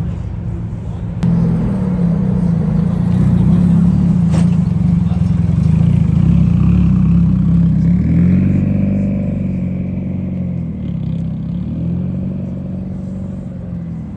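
A car engine running close by, getting louder about a second in and holding a steady low note, then wavering gently up and down in pitch with light blips of the throttle.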